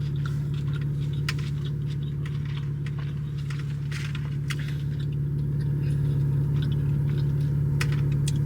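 A steady low hum, like an idling car heard from inside the cabin, with scattered small clicks and rustles of someone eating.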